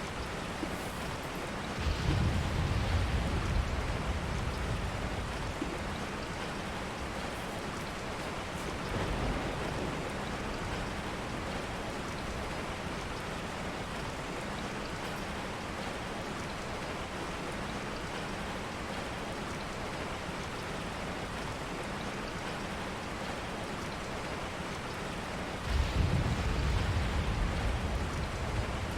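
Steady rain hiss, with a low rumble about two seconds in, a smaller one around nine seconds, and another near the end.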